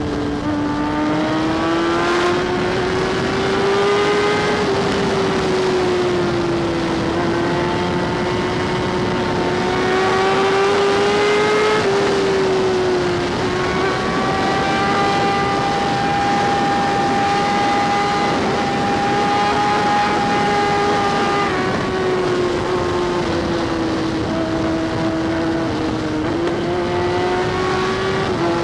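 Kawasaki ZX-10R sportbike's inline-four engine running steadily at riding speed, heard from the rider's helmet. Its pitch rises and falls gently with the throttle, and dips sharply a couple of times at gear changes.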